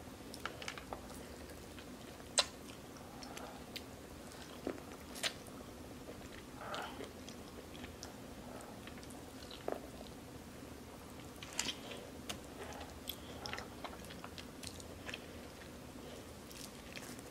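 A child biting into and chewing boiled corn on the cob, close up: scattered short sharp clicks and wet mouth smacks at an irregular pace, the sharpest click about two seconds in.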